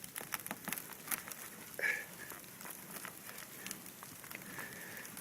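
Ice crackling and clicking: a run of sharp, irregular clicks, thickest in the first two seconds, with a brief squeak just under two seconds in.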